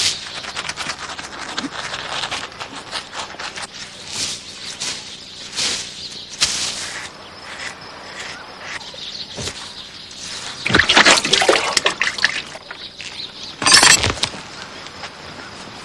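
Water splashing and sloshing in short, irregular bursts, with two louder splashes around 11 and 14 seconds in, over faint jungle birdsong.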